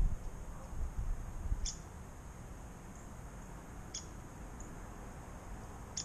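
Short, sharp, high chip calls of a small bird, repeated every second or two. A low rumble under the first couple of seconds dies away, leaving the calls over a quiet outdoor hush.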